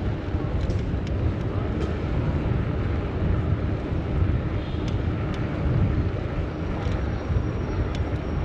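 Steady low rumble of wind on the microphone and street traffic, heard from a moving bicycle, with a few faint ticks.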